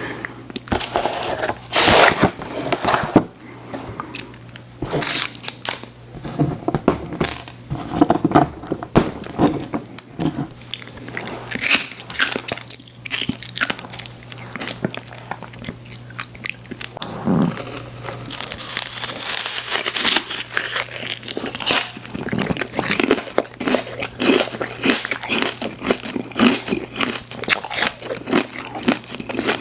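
Close-miked biting and chewing of sweets, with irregular crunchy, crackly bites and wet chewing throughout, over a low steady hum.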